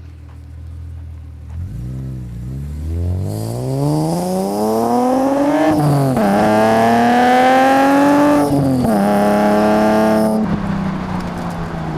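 BMW E36 M3's Euro-spec S50B32 inline-six, warm and breathing through a Supersprint exhaust with no catalytic converters, accelerating hard. The engine note climbs steadily and drops briefly at a gear change about halfway through. It climbs again, shifts once more about three-quarters through, then holds and eases off.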